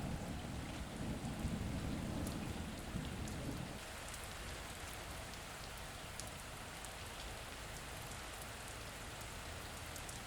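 Steady rain falling, with scattered drop ticks, and a low rumble of thunder that dies away about three and a half seconds in.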